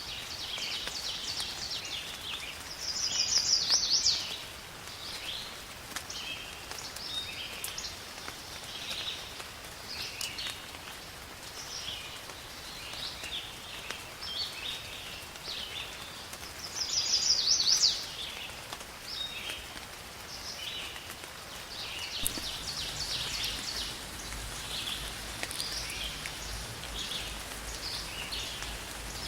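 Many birds chirping and singing over a faint steady hiss of rain, with one louder quick song phrase about three seconds in and again around seventeen seconds. A low rumble joins in after about twenty-two seconds.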